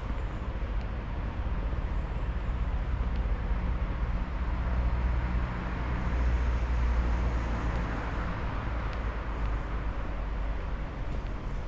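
A car driving past on a residential street: a steady rumble of engine and tyres that builds to its loudest in the middle and fades away.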